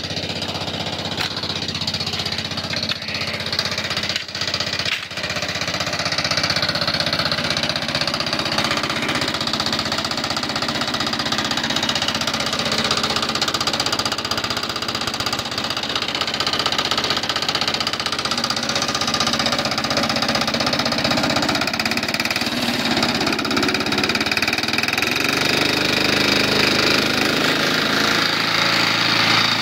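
1970s-era 3.5 hp Briggs & Stratton small engine running with a bad rod knock, a sign of a worn connecting rod bearing, yet still running strong. It dips briefly about four seconds in and shifts speed later on.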